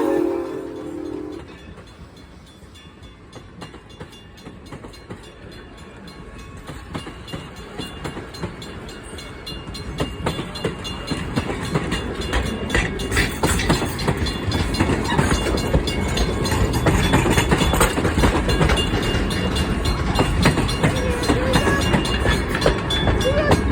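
A train's whistle sounding a chord cuts off about a second in. Then the train approaches and passes, its wheels clicking and rumbling over the rails, growing steadily louder.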